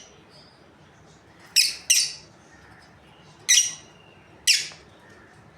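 Lovebirds giving four short, shrill chirps: two in quick succession about a second and a half in, then two more about a second apart later on.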